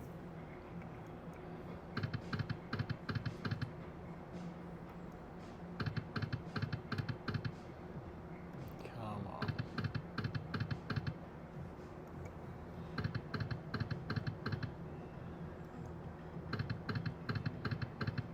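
Thunder Cash slot machine spinning its reels again and again: each spin brings a quick run of rapid clicks lasting about a second and a half, roughly every four seconds, over a steady low hum.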